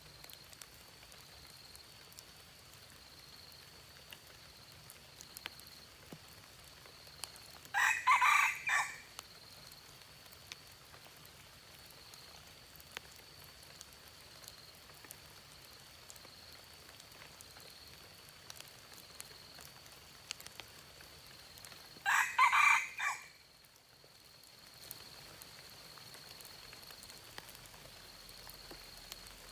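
A red junglefowl rooster crowing twice, each crow short, about a second long, and some fourteen seconds apart. Between the crows there is a faint steady high tone and scattered small ticks.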